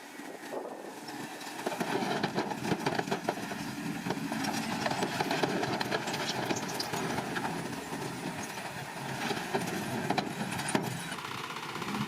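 Small crawler bulldozer at work: its diesel engine running under many rattling clicks and clanks, growing louder about two seconds in.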